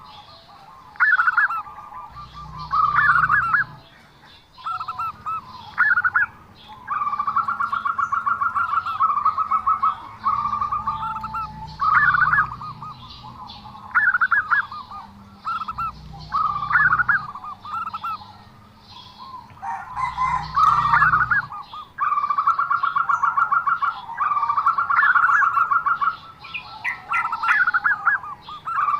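Zebra dove (perkutut) cooing: repeated phrases of fast staccato notes, each lasting a second or two, following one another with short gaps. The song is the unusual one that the bird is kept for.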